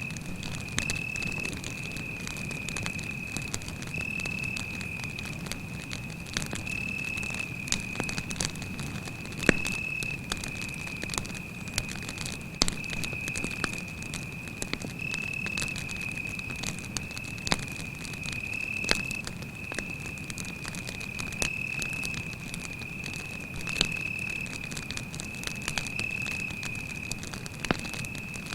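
Campfire crackling, with irregular sharp pops and snaps, over a continuous high-pitched cricket trill.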